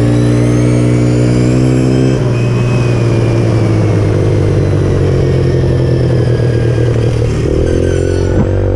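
Pit bike engine running at steady revs, easing off about two seconds in and picking up again near the end.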